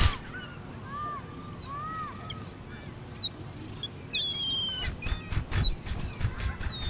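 Wild birds calling outdoors: several short, high whistled calls, some sliding down in pitch, and lower rising-and-falling calls in the first two seconds, with some short rustling knocks in the later part.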